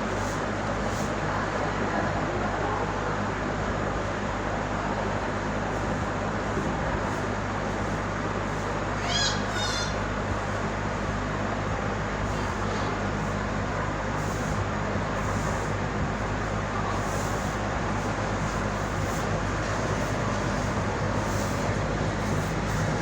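Steady mechanical hum with a constant rushing noise, unchanging throughout. A bird chirps briefly about nine seconds in.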